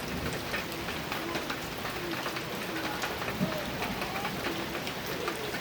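Heavy rain falling steadily on a metal roof: an even hiss dense with sharp ticks of individual drops striking the metal.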